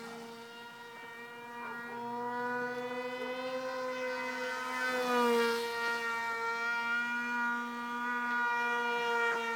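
Propeller and motor of a homemade foam RC pusher-jet plane whining steadily in flight. It grows louder as the plane passes about five seconds in, when the pitch drops slightly, then swells again near the end.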